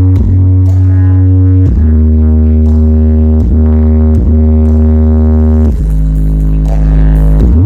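Loud electronic music with deep, held bass notes that change pitch every second or two, played through a large outdoor sound system.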